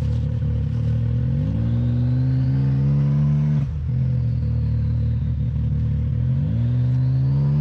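2024 Can-Am Maverick X3's turbocharged three-cylinder engine, fitted with an RPM side-exit drag muffler, idling and revved twice, each rev climbing for about two seconds before dropping off sharply. A high turbo whine rises with each rev and winds down after the throttle is released.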